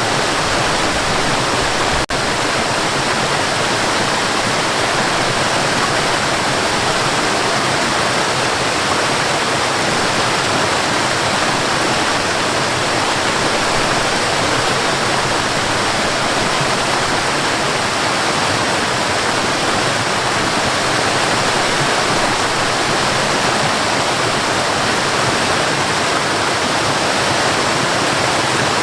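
Waterfall: a steady, dense rush of falling water, with one brief dropout about two seconds in.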